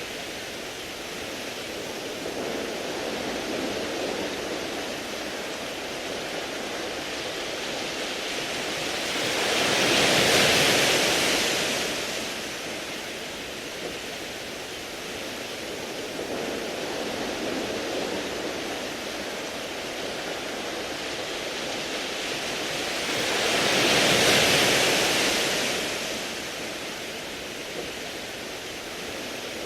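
Sea waves washing onto a beach of smooth round pebbles: a steady rush of surf, with two bigger waves swelling up and falling away, one about ten seconds in and another some fourteen seconds later.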